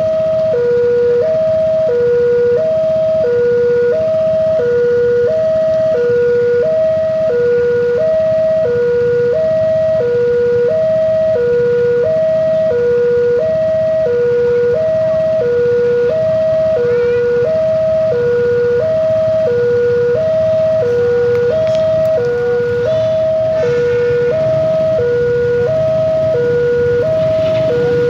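Railway level-crossing warning alarm sounding a steady electronic two-tone signal, alternating between a lower and a higher note about every two-thirds of a second: the crossing is closed for an approaching train.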